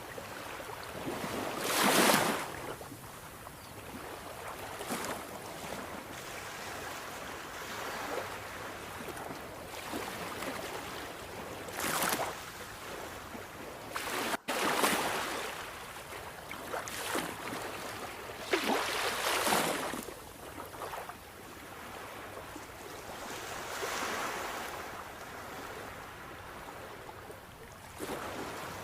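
Sea waves breaking and washing onto a shore: a rushing hiss that swells up every few seconds and ebbs away between them, with the sound cutting out for an instant about halfway through.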